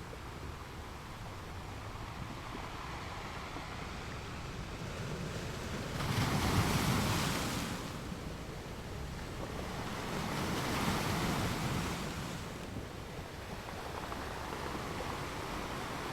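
Ocean waves breaking on a beach, with two louder surges of surf, one about six seconds in and another about ten seconds in, over a steady wash of water.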